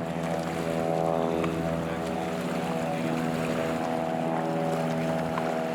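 Hydra-Sports walkaround boat's engine running steadily as it motors through the channel, an even hum with several steady tones.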